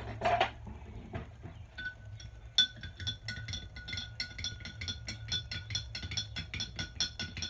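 Spoon stirring seasoning into chicken broth, clinking rapidly and evenly against the side of the container with a ringing tone, about six clinks a second, starting in earnest about two and a half seconds in.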